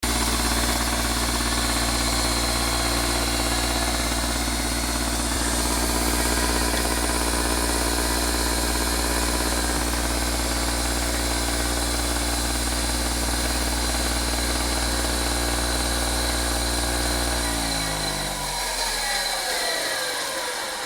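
Dynamo Sliven engine running at a steady speed, then switched off near the end, its pitch falling as it winds down to a stop.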